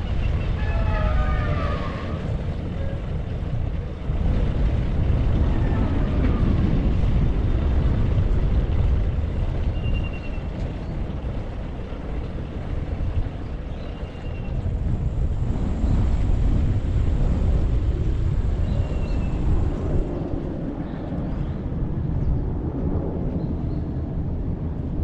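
Wind rushing over a bike-mounted action camera's microphone while riding, mixed with road traffic. A siren's wail fades out in the first two seconds, and a few brief high chirps come through later.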